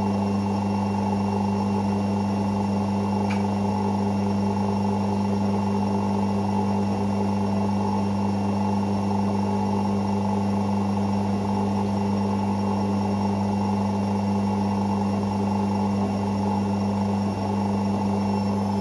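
Hoover Six Sportswear 1300 (AI130) washing machine running steadily partway through its Speed Wash programme, a constant hum with no pauses.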